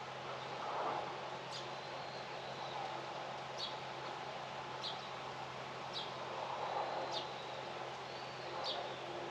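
A small bird giving a short, sharp, high call six times, one every second or two. Underneath is a steady hiss of outdoor ambience and a faint low hum.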